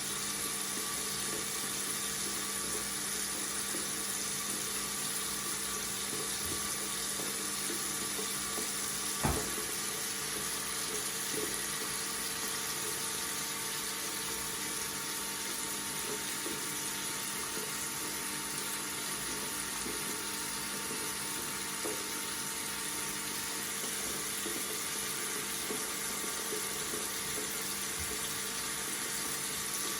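Water running steadily from a tap, with one brief click about nine seconds in.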